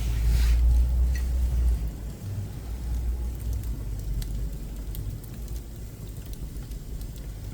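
Pine offcuts burning in a wood-burning stove, crackling with scattered sharp pops, over a low rumble that swells in the first two seconds and then settles.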